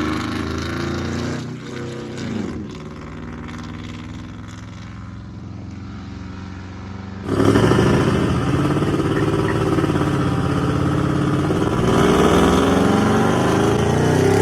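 Pickup truck engine running through a loud aftermarket exhaust, fading to a lower level after a second or two. About seven seconds in it cuts suddenly to a much louder truck engine, whose pitch rises and falls near the end as it revs.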